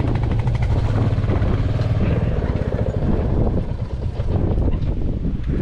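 Royal Enfield Classic 350's single-cylinder engine and exhaust running steadily while the motorcycle is ridden, a fast even beat of exhaust pulses.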